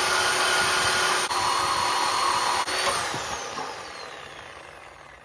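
A handheld power tool runs at full speed with two brief drop-outs as the trigger is released and squeezed again. From about three seconds in it spins down with a falling whine and fades.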